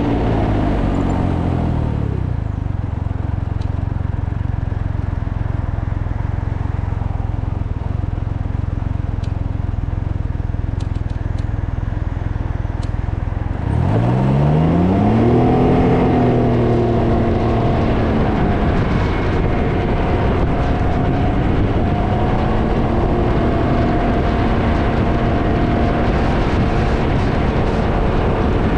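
Can-Am Ryker three-wheeler on the move: the engine note falls as it slows at the start, then a steady low wind rumble on the microphone dominates. About fourteen seconds in the engine revs up sharply as it accelerates, then settles into a steady cruising tone under the wind noise.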